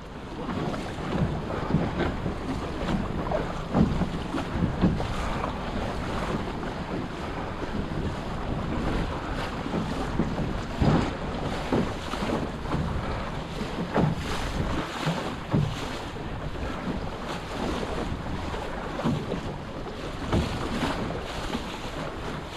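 Wind buffeting the microphone over water rushing and splashing against a small sailing dinghy's hull while it sails, with irregular slaps and knocks.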